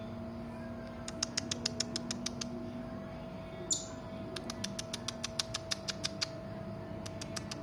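Serindit (hanging parrot) calling in quick runs of sharp, high chips, about eight to ten a second, in three bursts, with one short downward-sliding squeak between the first two. A steady low hum runs underneath.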